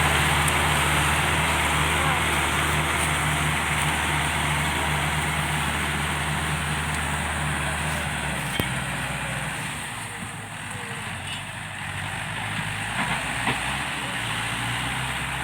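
Heavy diesel engine running steadily with a deep hum. About eight seconds in the low hum drops away and the sound grows quieter.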